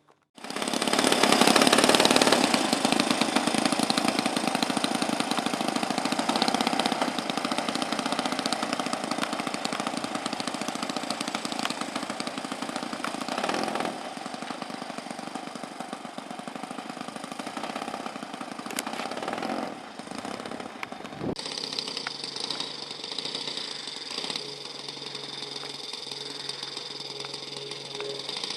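Saito FG-14 four-stroke gasoline engine on a radio-controlled model airplane, turning a three-blade propeller at high power. It starts abruptly, is loudest in the first couple of seconds, then slowly weakens, with a sudden change in the sound about 21 seconds in.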